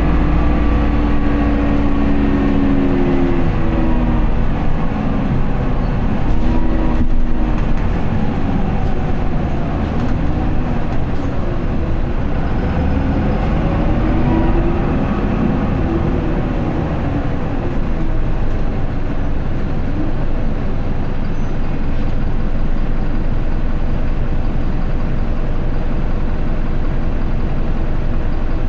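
Isuzu Erga city bus's four-cylinder turbo diesel, heard from inside the cabin. The engine note rises and falls with road speed in the first half, then settles into a steady idle as the bus stands.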